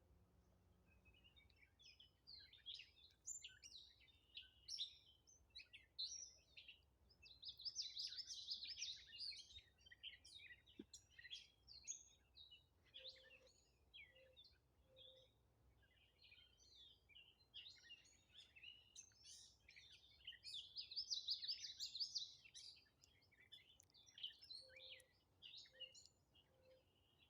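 Wild birds singing faintly: a dense run of high chirps and trills, with two fuller bursts of song about 8 and 21 seconds in. A soft, low three-note call comes twice, about halfway through and near the end.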